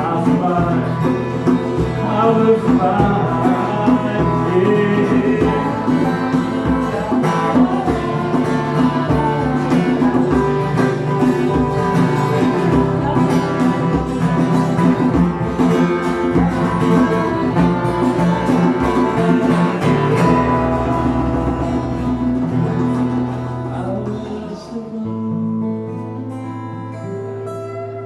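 Live band playing an instrumental passage with a steady beat, then easing into long held notes that fade away near the end as the song winds down.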